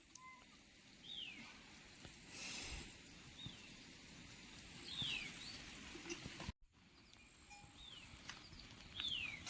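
A bird's short whistled calls, each falling quickly in pitch, repeated about five times at irregular intervals over faint background noise, with a brief hiss about two and a half seconds in.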